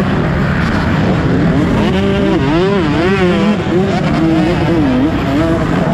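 Motocross bike engines revving hard, the pitch swinging quickly up and down over a steadier lower engine note, several bikes at once.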